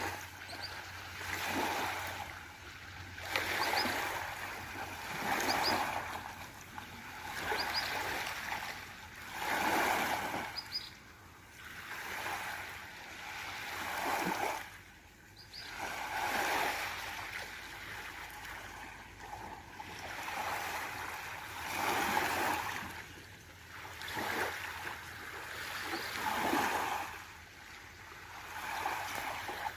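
Small sea waves washing and lapping, with a surge of water about every two seconds.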